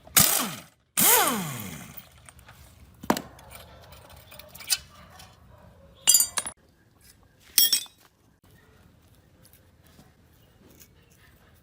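Metal engine parts and tools clinking and knocking in a handful of separate strikes. The first two, in the first second and a half, are the loudest and trail off in a falling ring.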